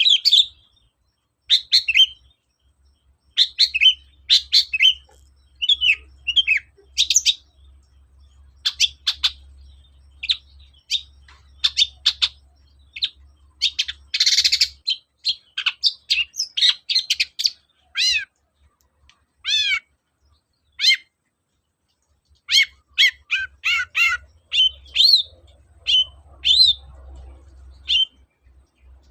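Long-tailed shrike (cendet) singing a busy song of short, high chirps and whistles in quick phrases with brief pauses. It includes several downward-sliding notes and a harsh rasping note about halfway through.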